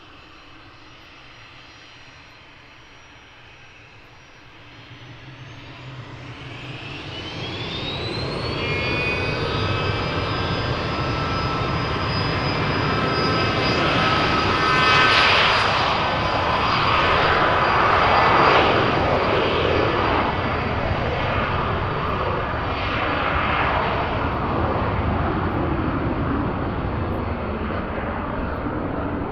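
Hawker Beechcraft 400XP twin-turbofan business jet taking off. Its engines spool up with a whine rising steeply in pitch about five to eight seconds in. The loud jet noise of the takeoff run and climb-out follows, peaking around the middle and slowly easing off.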